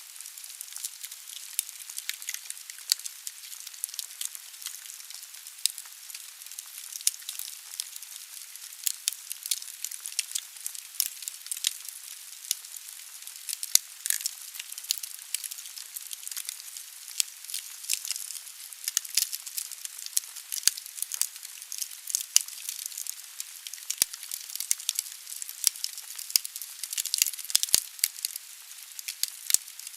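Wood fire burning in a fireplace: logs crackling with frequent sharp irregular pops over a steady hiss of the flames.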